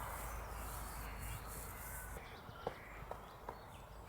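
Faint outdoor ambience with a low rumble that drops away about two seconds in, a few distant bird calls and three faint ticks near the end.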